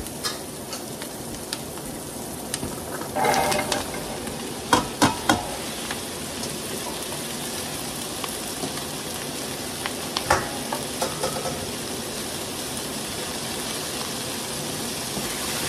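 Onions sizzling in a large stainless stockpot, a steady frying hiss. A few sharp knocks about five seconds in and again near ten seconds come as diced potatoes and carrots are tipped into the pot.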